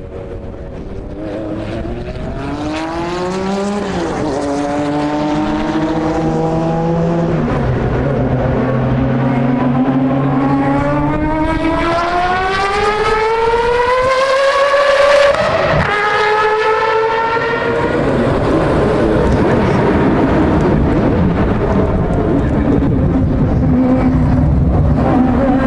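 Mazda 767B's four-rotor rotary engine accelerating hard through the gears. Its pitch climbs, drops briefly at upshifts about 4 seconds in and again about 15 seconds in, then climbs again. It grows steadily louder as it approaches and ends in a loud, rough roar.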